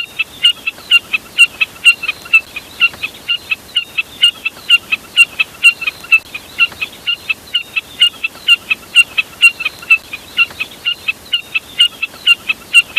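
Recorded call of a jack snipe (burcet): a rapid, steady series of short, sharp, high calls, about four or five a second.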